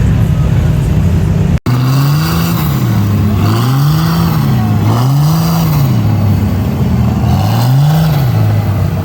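A mud truck's engine revving up and falling back again and again, roughly once a second, after a brief dropout in the sound about a second and a half in.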